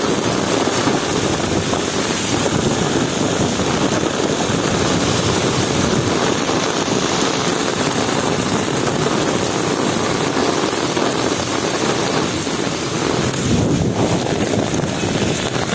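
Heavy rain pouring down steadily in a continuous dense hiss.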